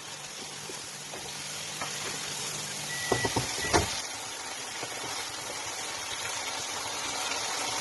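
Chicken karahi masala sizzling steadily in the wok, with a few sharp knocks about three seconds in.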